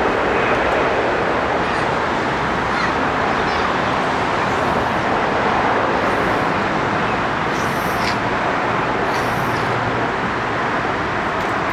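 Steady jet engine noise from an Airbus A330-900's Rolls-Royce Trent 7000 turbofans.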